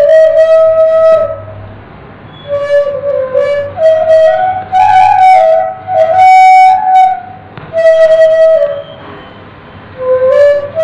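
Bamboo flute (suling) playing a slow melody in separate held phrases with short breaks. The pitch sits mostly in one register and climbs higher in the long middle phrase.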